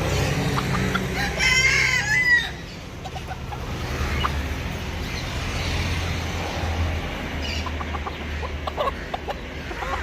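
A rooster crowing once, about a second and a half in, followed by scattered short clucks, over a steady low hum.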